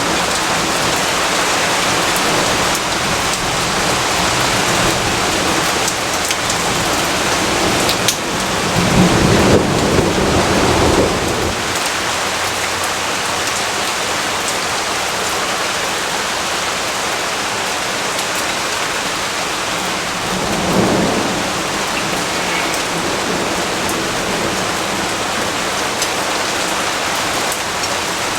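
Steady rain falling, with a low roll of thunder about a third of the way in that lasts a few seconds, and a shorter, fainter rumble about two thirds of the way in.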